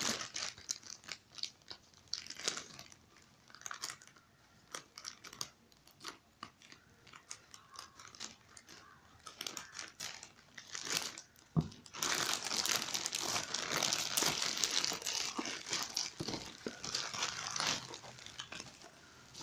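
Hair dryer packaging being opened by hand: scattered rustles and taps, then, about twelve seconds in, a denser run of crinkling and tearing that lasts several seconds.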